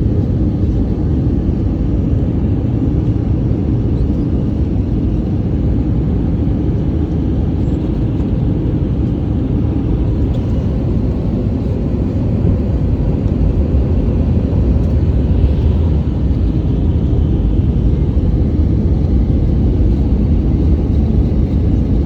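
Steady low rumble inside the cabin of an Airbus A320 in flight, from airflow and its IAE V2500 engines.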